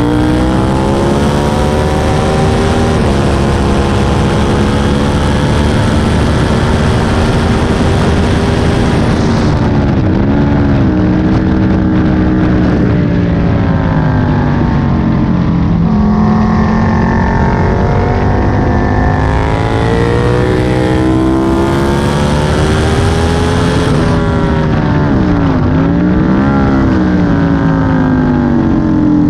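Aprilia Tuono 1000's V-twin engine at full track speed, heard on board: it climbs through the revs, drops in pitch at each gear change and winds down under braking, with a few quick rises and falls around the slow corners. Wind noise rises over it on the fastest stretches.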